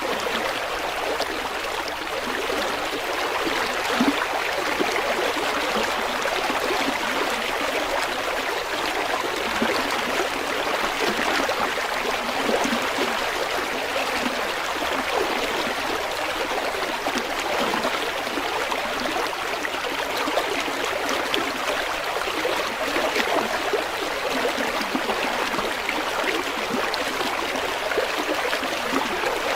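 River water flowing and babbling over rocks, a steady splashing rush with small gurgles.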